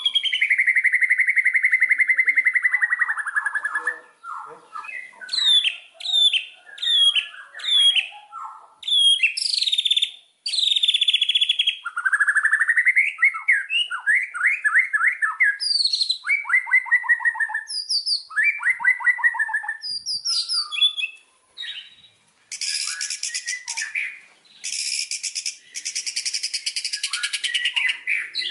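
White-rumped shama (murai batu) singing a long, varied song: a held whistle at the start, then short sliding whistles and fast trilled phrases, turning to a loud harsh chatter about 22 seconds in.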